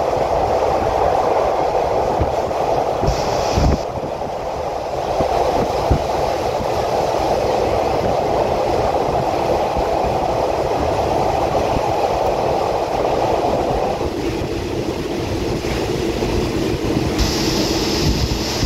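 Passenger train running along the track, heard from inside the carriage: a steady rumble of wheels on rails with a couple of sharper knocks around four and six seconds in. Its tone drops lower about fourteen seconds in, and a high hiss comes in near the end.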